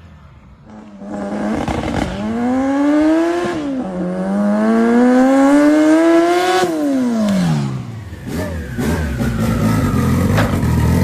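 Honda Integra's B-series four-cylinder engine revving up hard under acceleration, with a quick upshift about a third of the way in, pulling up through the revs again, then backing off so the pitch slides down and settles into a low rumble near the end.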